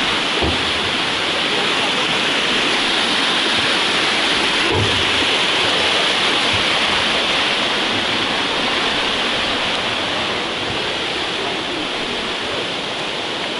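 Waterfall pouring and splashing close by, a loud steady rush of water.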